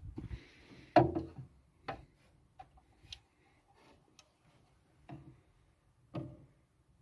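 Irregular knocks and clicks, five or so over several seconds, the loudest about a second in, with a brief hiss at the very start.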